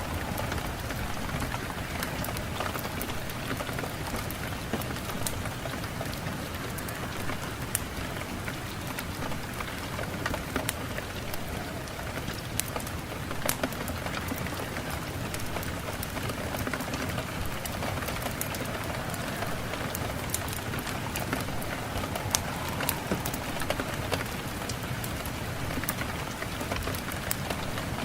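Steady rain falling, with scattered sharp clicks of individual drops striking close by.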